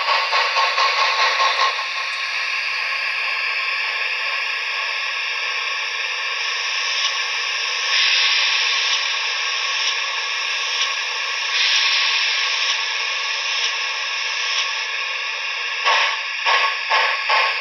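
Steam-locomotive sound from the DCC sound decoder of a Trix HO-scale Southern Pacific Berkshire model, through its small onboard speaker. Exhaust chuffs at about four a second give way after about two seconds to a steady hiss of steam with a few louder swells, and the chuffing starts again near the end.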